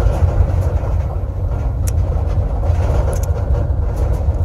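Steady low rumble of a car's engine and road noise, heard from inside the car, with a few faint ticks.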